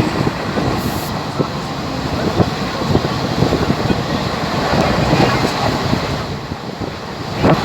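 Passenger train running, heard from on board: a steady rumble with continual rattling and clatter of the carriage, and a louder knock near the end.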